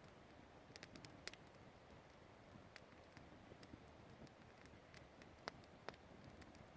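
Campfire crackling faintly: irregular sharp snaps and pops of burning wood, a few of them louder, over a soft steady hiss.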